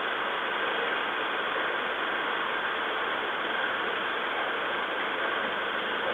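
A vehicle running while stopped, heard as a steady, even rushing noise with no distinct events.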